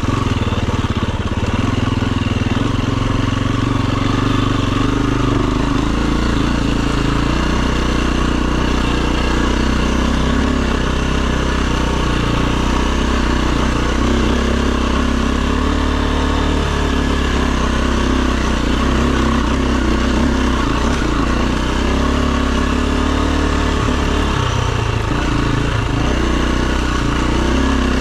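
Enduro dirt bike engine running steadily while being ridden, its note shifting up and down with the throttle.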